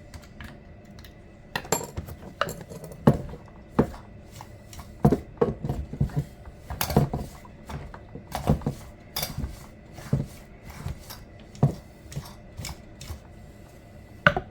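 Irregular metallic clinks, clicks and knocks of hand tools and chainsaw parts being handled while the saw is cleaned, with several louder knocks between quieter ticks.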